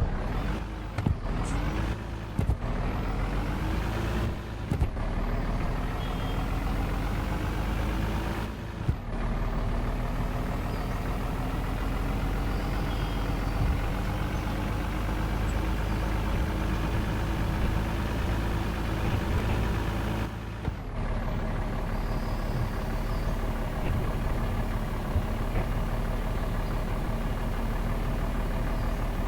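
Truck engine pulling through the gears: its pitch rises, drops briefly at each gear change (about five shifts, the last about two-thirds of the way in), then rises again before settling into a steady run.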